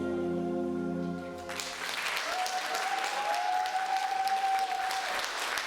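The final held chord of a song fades out, and about a second and a half in an audience breaks into sustained applause.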